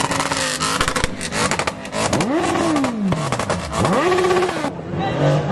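Car engine revving hard as it pulls away, its pitch climbing and falling twice in the second half, with a rapid crackling through the first couple of seconds.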